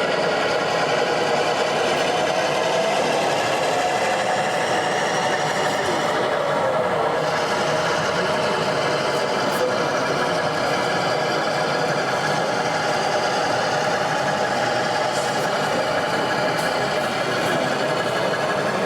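Steady babble of many voices in a busy hall, with a thin tone drifting up and down in pitch beneath it.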